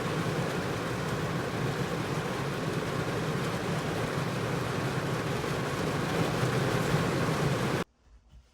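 Heavy rain pouring, a steady dense hiss that cuts off abruptly near the end.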